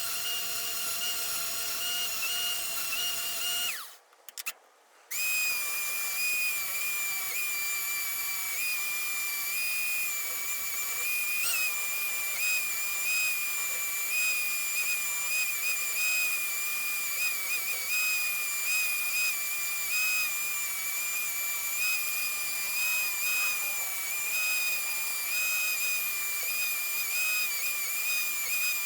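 A small electric power tool, of the drill or rotary-tool kind, running at a steady high speed with a high-pitched whine. It breaks off briefly about four seconds in and comes back a little lower in pitch, with slight wavers as it is loaded.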